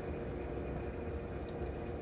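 A moving train: a steady low rumble with a steady engine hum over it.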